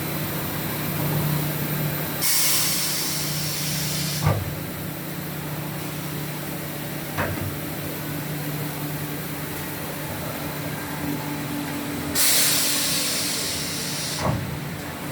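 A 5-axis CNC woodworking router running with a steady machine hum. Two loud bursts of compressed-air hiss, each about two seconds long, come about two and twelve seconds in. Each burst ends in a sharp clack, and a single click falls between them.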